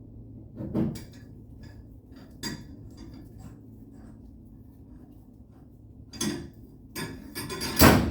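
Metal tools clinking and knocking, a few scattered knocks with a louder clatter near the end.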